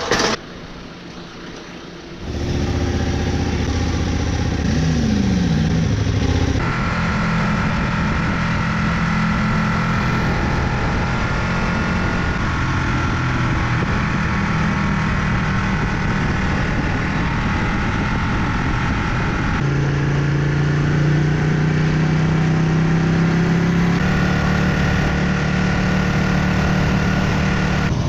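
A vehicle engine running steadily, starting about two seconds in. Its pitch holds, then jumps to a new level a few times.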